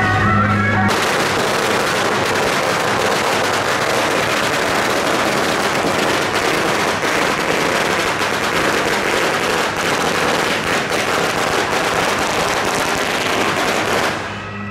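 A long string of firecrackers going off in rapid, continuous cracks. It cuts in about a second in and stops abruptly just before the end, drowning out the procession music that plays at the start.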